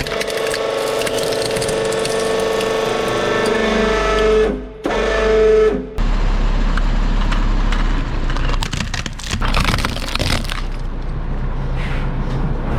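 Hydraulic press motor whining steadily, dipping out briefly for a moment; after a sudden cut, a heavy truck engine running with a low rumble and a few sharp cracks.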